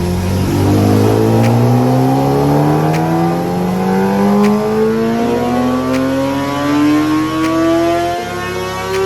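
Kawasaki ZX-10R inline-four engine on a dyno, revving steadily higher in one long full-throttle pull, over background music with a beat.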